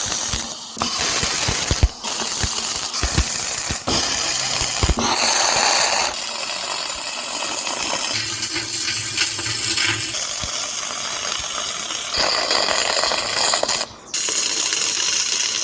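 Electric welding arc crackling and hissing on steel, in several runs of a few seconds each with short breaks between.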